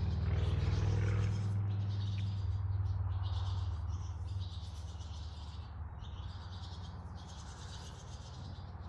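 Birds chirping, over a low rumble that fades away over the first four seconds.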